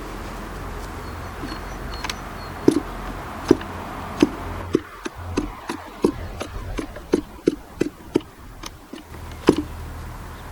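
Propeller of a K&B .40 R/C glow engine being flipped over by hand: a run of short sharp knocks, a few scattered at first and then two to three a second. The engine does not fire, which the owner puts down to too little prime.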